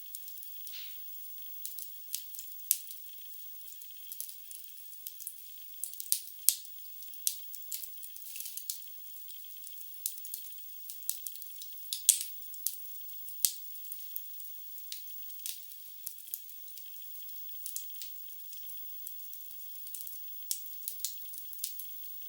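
Wood fire in a fireplace crackling: irregular sharp pops and snaps from the burning logs over a faint steady hiss, a few louder pops standing out about six and twelve seconds in.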